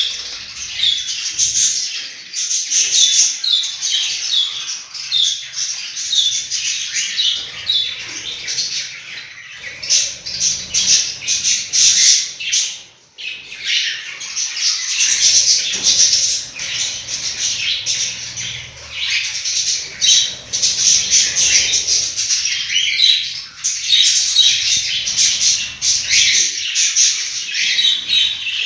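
A flock of budgerigars chattering and squawking together in a dense, unbroken twitter, with a brief lull about thirteen seconds in.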